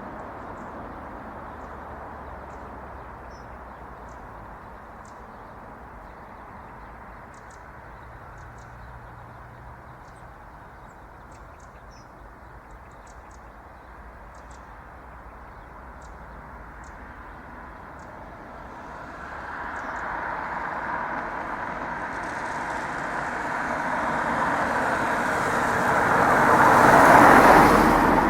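A car approaching and passing close by, swelling over the last ten seconds and loudest near the end, over steady low road noise with faint high bird chirps scattered through.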